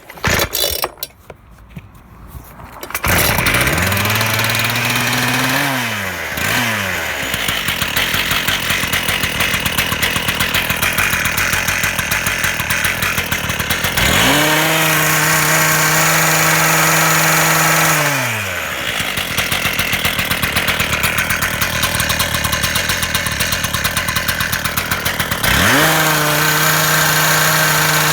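Two-stroke petrol engine cutter (cut-off saw) started with a few short pulls, catching about three seconds in. It then idles with an even firing beat and is revved to full throttle three times, each rev rising quickly, holding steady for a few seconds and falling back to idle.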